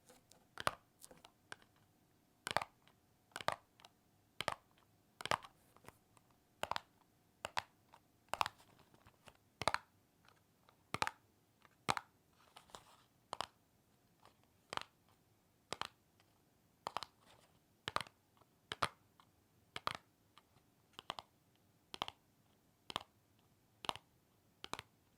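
ASMR tapping on the packaging of small toy figures being unboxed: sharp, separate taps, one to two a second, some in quick pairs.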